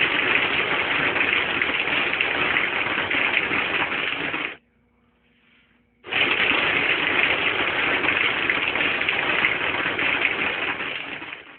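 Compressed air blasting through a homemade soda-bottle airsoft machine gun, an air-compressor blowgun feeding a pellet-filled bottle and a brake-line barrel, as it fires pellets. It fires in two long steady bursts of about five seconds each, with a pause of about a second and a half between them.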